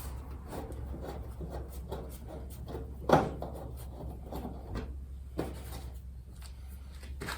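Small clicks and scrapes of a screwdriver taking a screw out of a kerosene heater's metal casing, with a sharper knock about three seconds in and lighter ones near five and seven seconds.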